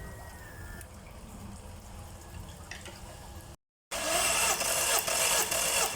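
Yamaha F100 four-stroke outboard motor running. It starts as a low, quiet rumble, cuts out briefly, then comes back much louder and harsher, with a rapid, irregular clatter over its running note.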